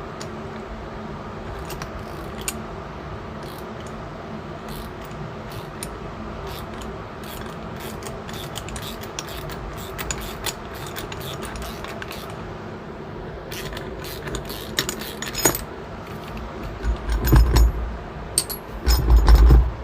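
Metallic clicking and clinking of a wrench turning the centre bolt of a steering wheel puller, sparse at first and then quicker and busier, with a few heavier knocks and bumps near the end.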